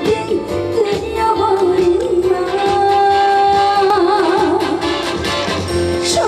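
Live trot song: a woman singing long held notes that waver into ornamented turns, over a band with drums and bass.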